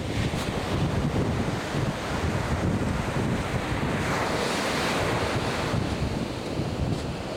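Atlantic Ocean surf breaking and washing on the beach, with wind buffeting the microphone in a steady low rumble. A wave's hiss swells about four seconds in and fades again.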